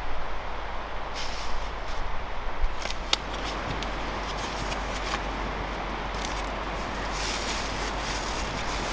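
Cooking over a campfire: a steady hiss with a few sharp crackles or clicks in the first few seconds, and a brighter hiss near the end.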